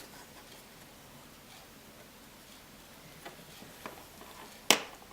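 Faint scattered clicks and taps of a small Phillips screwdriver and tiny screws being handled on an opened iPhone 5, with one sharp, louder click near the end.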